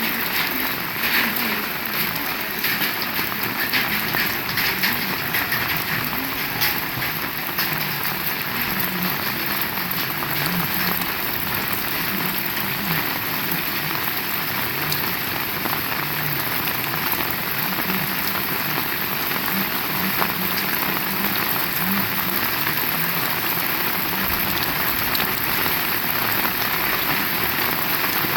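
Heavy rain falling steadily, a dense even hiss of drops striking surfaces, with sharper individual drop impacts crackling through it, more of them in the first several seconds.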